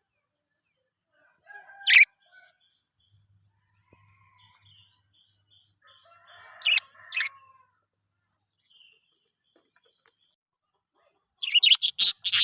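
Budgies calling: a sharp chirp about two seconds in, two more in the middle with soft chattering around them, then a quick run of loud chirps near the end.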